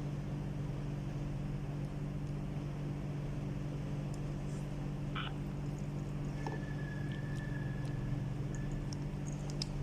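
A steady low hum of several tones, with a few faint clicks and a thin higher tone held for about two seconds in the second half.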